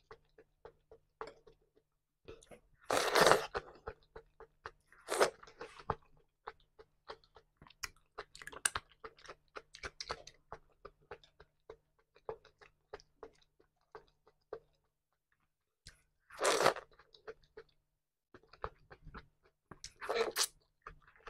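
Close-miked chewing of crunchy raw salad vegetables (shredded cabbage, cucumber): many quick, sharp crunches in an irregular run, with a few louder bursts of mouth noise now and then.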